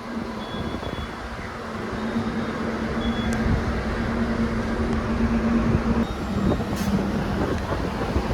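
Light rail tram running close by: a steady low hum over rumbling wheel and street noise, growing louder about two seconds in.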